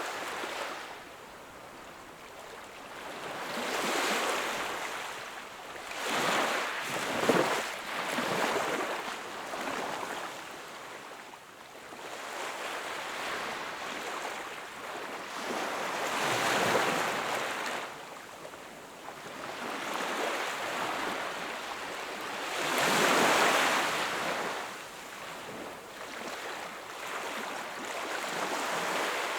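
Sea waves washing onto the shore, swelling and falling back every few seconds, with the biggest surge about two thirds of the way in.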